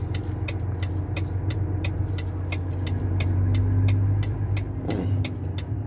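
Heavy truck's diesel engine running steadily as the truck reverses, swelling slightly about halfway through, with short high pips repeating about three times a second.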